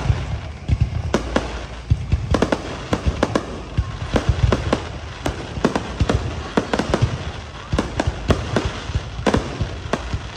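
Fireworks display: a rapid, irregular string of sharp bangs, several a second, over a continuous low rumble.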